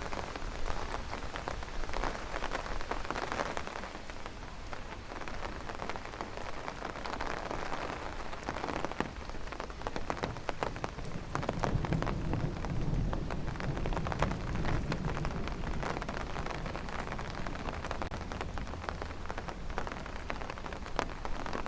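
Steady rain falling, a dense patter of individual drops striking nearby surfaces. A low rumble swells and fades for several seconds around the middle.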